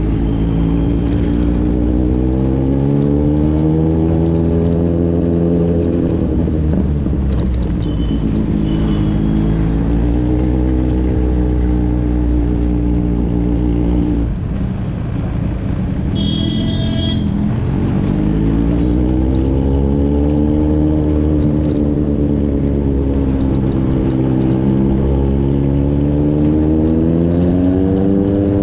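Motorcycle engine running under way, its pitch rising and falling slowly several times as it speeds up and eases off. A vehicle horn sounds briefly about sixteen seconds in.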